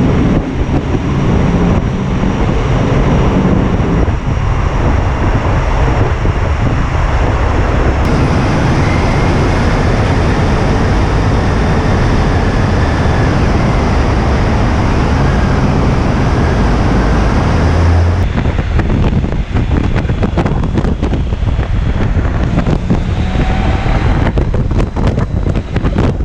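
Wind rushing over the microphone of a moving BMW K1600 GLT touring motorcycle, with its inline-six engine and road noise underneath. It turns choppier and more buffeting in the last several seconds.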